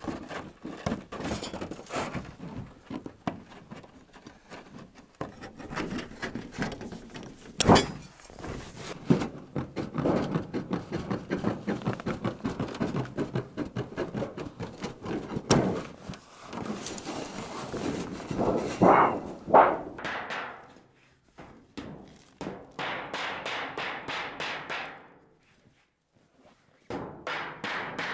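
Hand tools at work on a stove chimney pipe fitting: irregular knocks and taps with a few loud single blows, then runs of fast, even clicking near the end.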